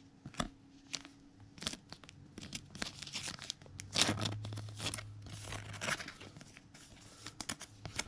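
Trading-card handling: cards shuffled and flicked through the hands, with repeated short rustles of plastic sleeves and wrappers.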